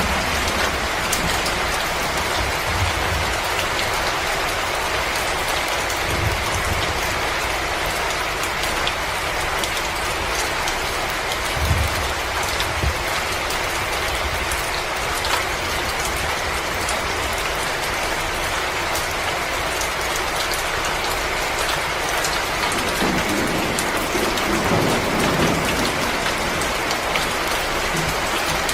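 Wood fire crackling in a fireplace: a steady hiss with many small sharp pops scattered through it, and a few low rumbles now and then.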